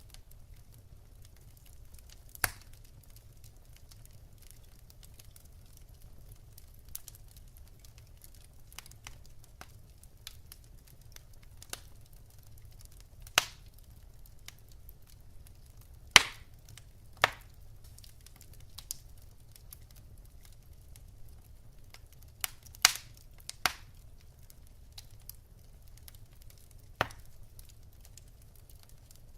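Wood fire burning in a fireplace: sharp, irregular pops and crackles from the logs, a few loud snaps among fainter ticks, over a low steady background hiss.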